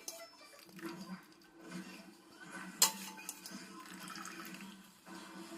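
Water running or being poured in a kitchen, with one sharp clink of a utensil or pot nearly three seconds in.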